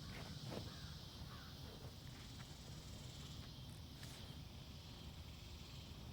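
Faint outdoor woodland ambience: a steady low rumble of wind on the microphone under a constant faint high hiss, with a few faint clicks about half a second in.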